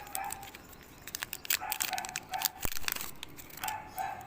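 A foil trading-card pack being crinkled and torn open, with the cards rustling and clicking as they are handled, and one soft knock about two and a half seconds in.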